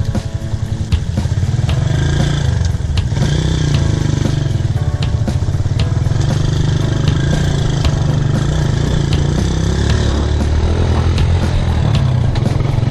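Motorcycle engine running steadily under load, with clattering knocks from the bike on a rough dirt track.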